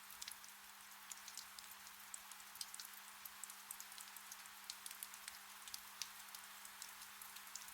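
Faint, gentle rain: a soft, steady hiss with many scattered droplet ticks. A faint steady low hum runs underneath.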